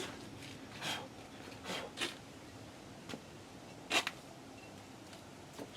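Hands working on brake parts: about six short scrapes and rubs at uneven intervals, the one about four seconds in the loudest.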